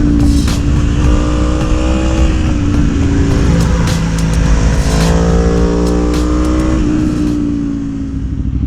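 Aprilia Tuono motorcycle engine with a Gabro Racing Stage 3 kit, heard from the rider's seat while riding. The engine note holds fairly steady, rises under acceleration around the middle, then drops and winds down as the throttle eases near the end.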